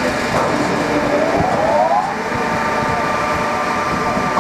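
Timber processing line machinery running loudly, with a motor whine that rises in pitch over about a second and a half and then holds steady, as a drive spins up to speed.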